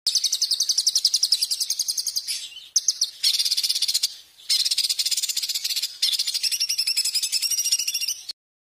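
A songbird's fast, high-pitched trill: rapid repeated notes in several phrases with short breaks, cutting off abruptly near the end. This is a recorded masteran track of the kind played to cage songbirds to teach them calls.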